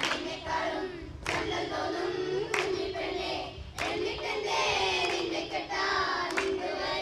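Voices singing a Malayalam poem, with sharp hand claps about every second and a half keeping time.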